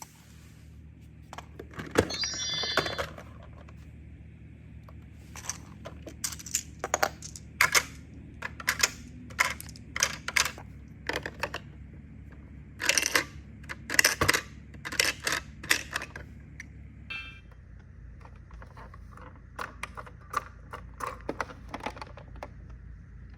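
Hard plastic toy parts clicking and clacking as a play refrigerator and its small plastic food pieces are handled, in irregular single knocks and short runs of clicks. A brief high-pitched tone sounds about two seconds in.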